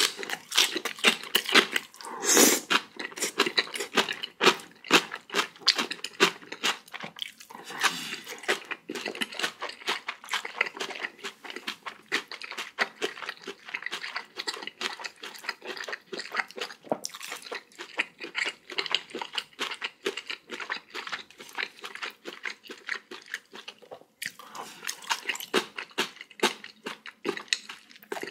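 A person chewing crunchy food close to the microphone, a steady stream of quick crunches with short pauses between mouthfuls.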